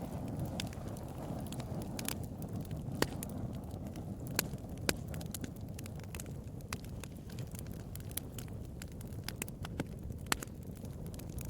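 Wood fire burning with a steady low rush and irregular sharp crackles and pops.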